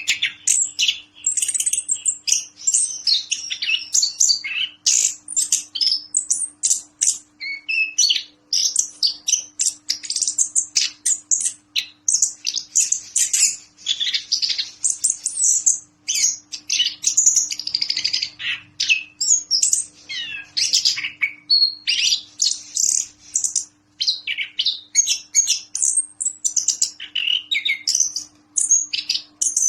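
Orange-headed thrush singing non-stop, a rapid, varied stream of loud chirps, whistles and warbling phrases with hardly a pause.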